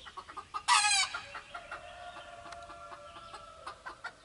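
Domestic chickens: a loud short squawk about a second in, then a rooster crowing with a long held note of about two seconds, with scattered clucking throughout.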